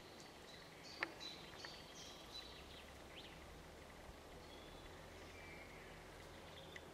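Faint songbirds chirping and twittering in short high notes, mostly in the first two or three seconds, with one sharp click about a second in and a faint low hum in the background.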